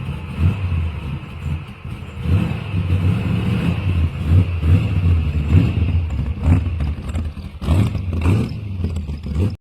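A motor vehicle engine running with a low, uneven rumble that swells and dips in level.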